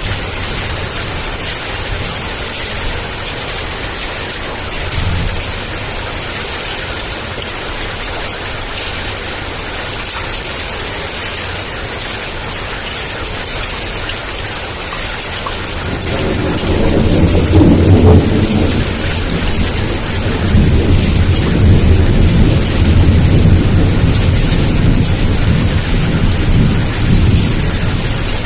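Heavy rain falling in a steady downpour, with thunder starting to rumble about halfway through, swelling to a peak shortly after and rolling on to the end.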